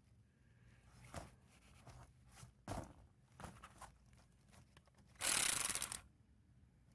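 A few light clicks and clinks of bolts and hardware are followed, about five seconds in, by a ratchet wrench clicking rapidly for under a second as a bracket bolt is run in.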